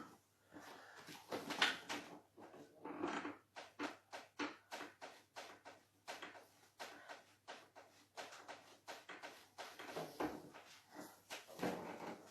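Hands working over a person's back during a deep-tissue massage: an irregular run of soft, short knocks and rubbing sounds, about two or three a second.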